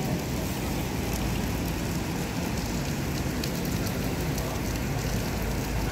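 Steady hiss of rain, with the low rumble of a Hino bus's diesel engine running close by.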